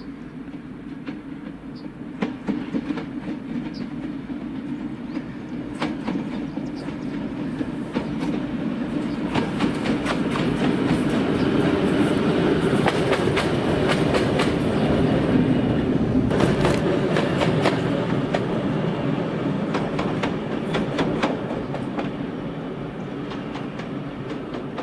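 A train passing on the track, its wheels clicking over the rail joints with a steady rumble underneath, growing louder toward the middle and then fading.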